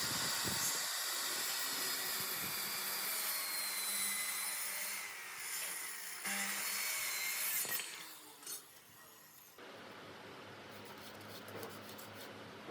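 A tool working wood, a steady rasping hiss of cutting or sanding that eases off briefly about six seconds in and stops about eight seconds in. After that there are only a few light clicks and taps.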